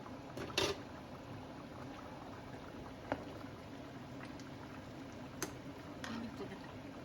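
Beef curry bubbling as it simmers in a pot, with a few sharp knocks; the loudest comes about half a second in.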